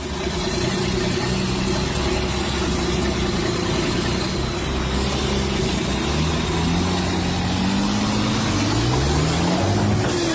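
Engine of a heavy machine running steadily, then revving up, its pitch rising in steps over the last few seconds.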